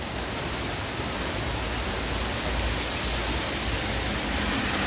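Heavy rain falling steadily on the pavement and surroundings, a dense, even hiss.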